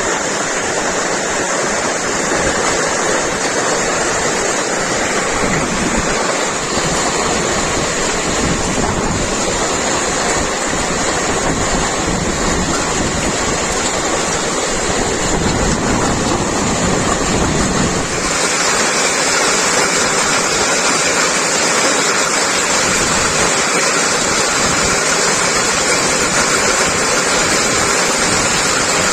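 Heavy rain falling in a steady, loud rush, its sound changing character about 18 seconds in.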